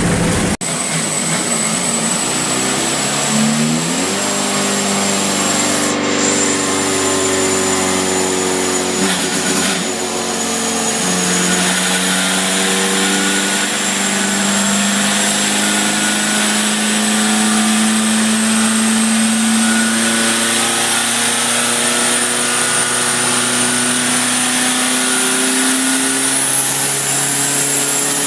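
Turbocharged engine running at a fairly steady speed, its pitch shifting slightly. A thin high whine sits above it and climbs near the end.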